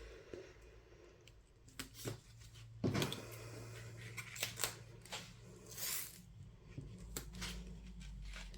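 Sparse quiet snips, clicks and rustles of double-sided foam tape being cut and handled at a craft desk, with one longer rustle about six seconds in.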